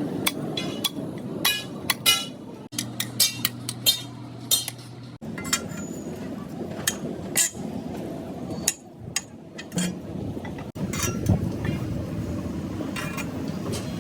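Hammer blows and clinks of metal on metal, coming irregularly, several in a second at times, each with a short ring, over a steady background of workshop noise.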